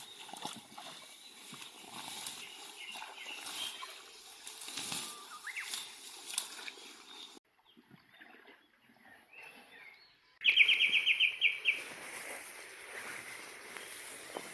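Outdoor rustling with scattered light knocks, then, after a break, a short fast trill of about a dozen high notes, likely a bird call, which is the loudest sound.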